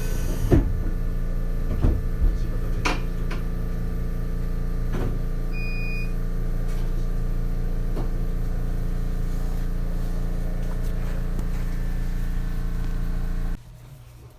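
Inside a 7000-series electric railcar, a steady hum of onboard machinery with a few knocks in the first couple of seconds and a short high beep about six seconds in. Near the end the hum cuts off abruptly and it goes much quieter.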